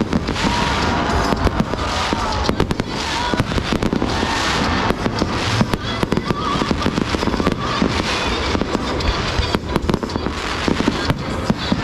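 Fireworks display: a rapid, unbroken string of bangs and crackles.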